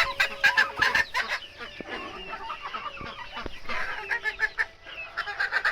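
A flock of bantam chickens clucking, many short calls overlapping, busiest at the start and again near the end.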